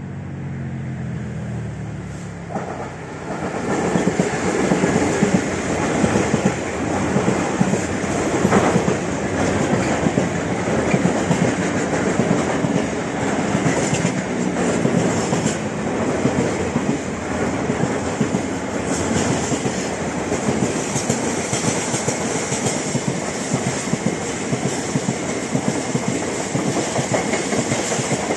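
Freight train passing close by. The diesel locomotive's engine drones past in the first few seconds, then a long string of container flat wagons clatters by with a steady clickety-clack of wheels on the track.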